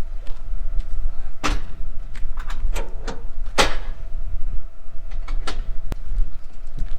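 Metal clanks and knocks from the swing-away hopper of a grain auger being moved into place, four or five sharp hits with short ringing, over a steady low rumble and a faint steady hum.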